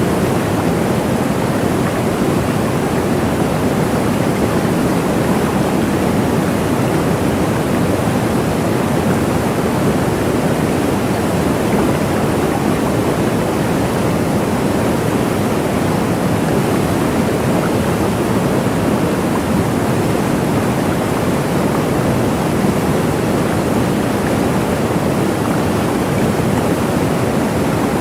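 A waterfall's steady, unbroken rush of falling water, deep and even with no splashes or changes standing out.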